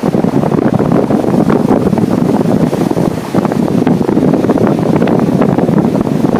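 Strong wind buffeting the microphone: a loud, rumbling, fluttering noise, with ocean surf washing beneath it.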